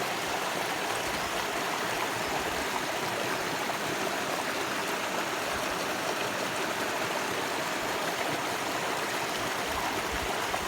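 Stream water flowing and splashing over rocks, a steady rushing burble.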